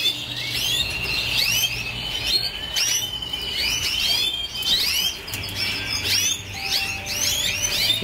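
Domestic canaries chirping and singing: many quick up-and-down chirps over a long, even trilled note through the first half.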